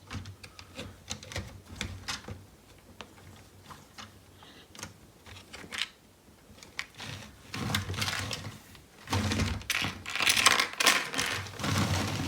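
Plastic Lego pieces clicking and rattling as they are handled and fitted together: scattered single clicks at first, then a denser clatter from about halfway through.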